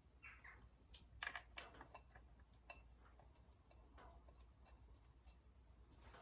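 Near silence with a few faint, short clicks and taps, a small cluster about a second in, from metal tools and clutch parts being handled.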